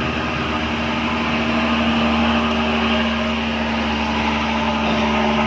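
A steady mechanical hum with a few held tones, like a small motor running.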